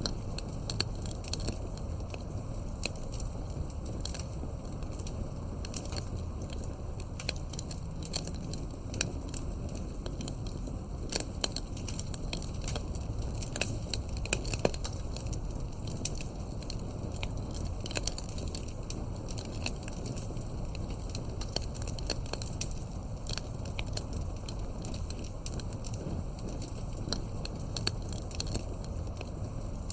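Campfire burning with a steady low rumble and frequent irregular crackles and pops of the wood, a few louder snaps scattered through.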